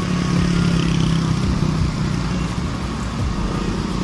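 Wind rumbling across a rider's helmet-mounted phone microphone over the running note of a Honda RS125 FI's single-cylinder engine, ridden at slowing speed. A steady engine tone is clear for the first couple of seconds, then fades under the wind noise.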